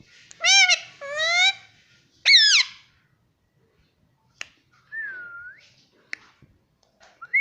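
Indian ringneck parrot calling and whistling: two short rising calls, then a loud, sharply falling squawk about two seconds in, followed by a few sharp clicks and a pure whistle that dips and rises, once in the middle and again near the end.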